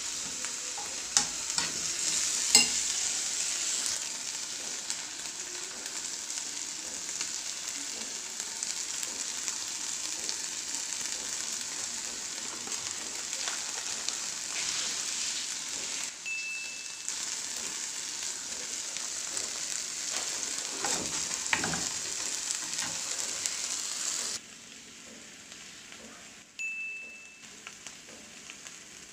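Canned tuna with onion and green chili sizzling in a frying pan while a metal spoon stirs it, with a few sharp clicks of the spoon against the pan in the first seconds. The sizzle drops to a quieter level near the end.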